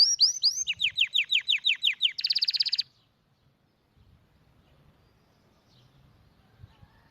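Canary singing a song of fast rolls, each a rapid run of repeated whistled notes, switching to a new roll about two-thirds of a second in and again just after two seconds, the last one buzzier and faster, then breaking off about three seconds in.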